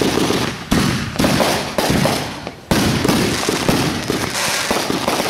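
Fireworks going off in quick succession: a string of sharp bangs about every half second to a second, each one trailing off before the next.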